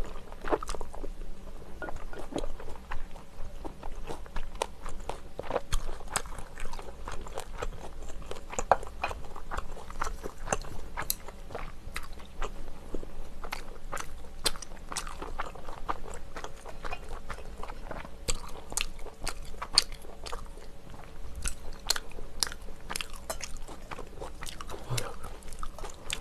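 A person chewing close to the microphone, with many short, crisp crunches throughout as cabbage and radish kimchi are bitten and chewed.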